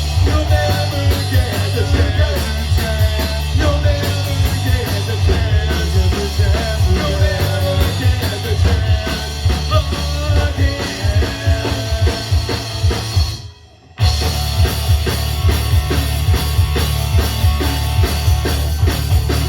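Punk rock band playing, with drum kit and electric guitars, in an instrumental passage between sung lines. The music drops out for about half a second near two-thirds of the way through, then comes straight back in.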